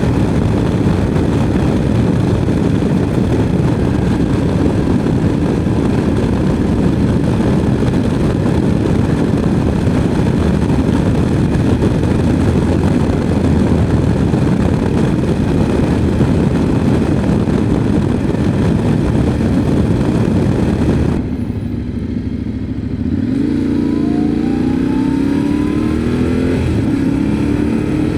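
Motorcycle riding at speed with steady wind rush over the engine. About three-quarters of the way through the wind drops away as it slows, then the engine's pitch rises in steps as it accelerates through the gears.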